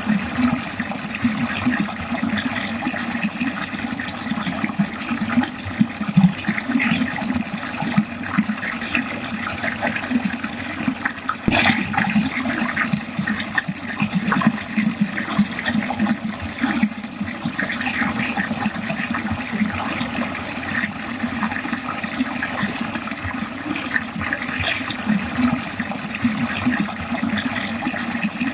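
Water running steadily down a drain, with a constantly flickering, splashy texture. A single brief click about halfway through.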